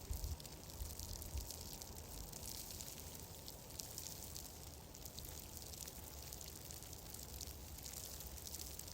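Steady ambience of fine crackles and ticks over a low rumble, with a few heavier low thumps about the first second and a half.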